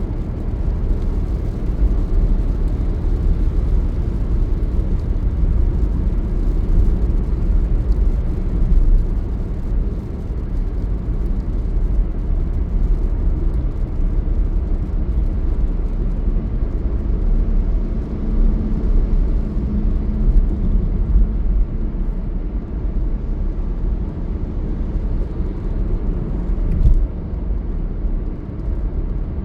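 Steady low rumble of a vehicle on the move, road and engine noise with little hiss above it. A faint hum comes in for a few seconds past the middle, and there is a single knock near the end.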